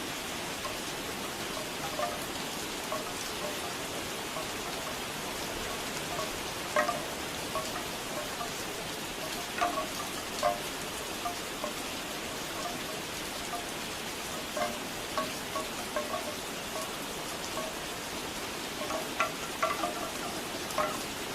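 Steady rain with bamboo wind chimes knocking now and then, the knocks coming in a quick flurry near the end.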